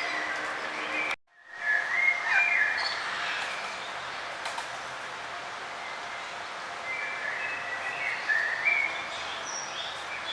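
Small birds chirping in short, quick phrases over a steady background hiss. The sound drops out to silence for a moment about a second in, and the chirping is busiest just after that and again near the end.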